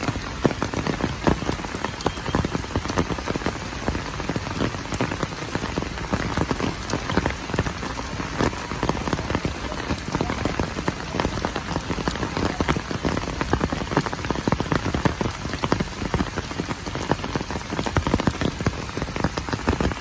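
Heavy rain falling steadily, with many sharp, close drop strikes on hard surfaces.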